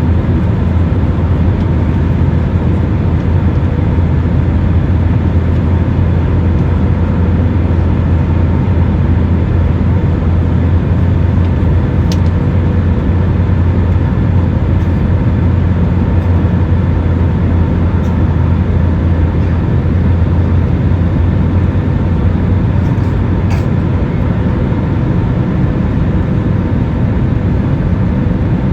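Steady, unbroken low rumble of a passenger airliner heard from inside the cabin in flight, with a faint steady hum over it.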